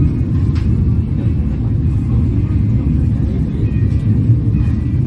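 Moving passenger train heard from on board: a steady low rumble of the wheels and the coach running along the track.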